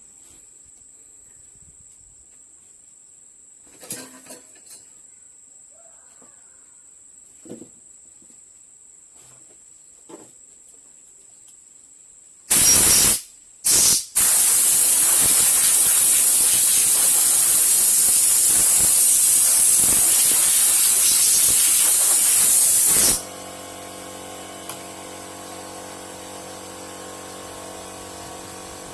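Aerosol can of copper gasket spray hissing: two short bursts, then a long steady spray for about nine seconds that stops abruptly. A few light knocks come before it, and a quieter steady hum follows it.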